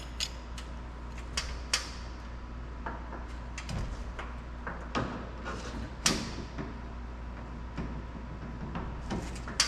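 Irregular knocks, clacks and light scrapes as a truck cab skin panel is handled and worked into place, with the sharpest knocks about two seconds and six seconds in, over a faint steady hum.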